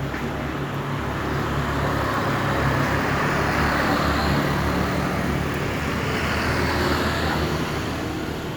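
Road traffic: a steady low motor-vehicle hum, with road noise that swells in the middle and eases off near the end, as of a vehicle passing.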